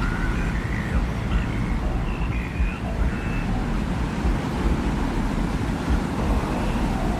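Desert wind ambience: a steady, deep, gusty rumble of wind, with faint brief whistling tones drifting in and out higher up.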